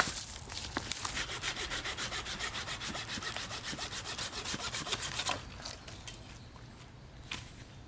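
Hand saw cutting through wood with quick, even strokes, several a second, for about four seconds before stopping.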